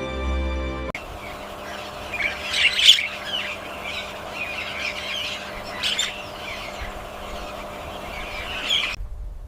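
Bird calls over a steady outdoor background hiss, with the loudest calls about three seconds in and again about six seconds in. The sound cuts off abruptly just before the end.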